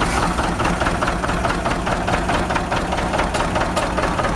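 A heavy engine running steadily at idle.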